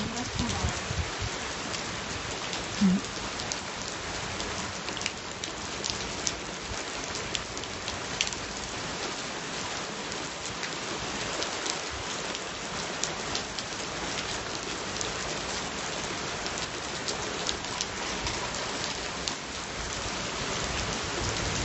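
Steady rain falling, with scattered drops ticking sharply close to the microphone.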